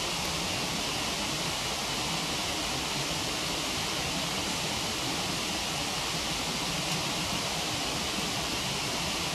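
Waterfall rushing as a steady, even hiss, with a faint crackle or two from a wood campfire.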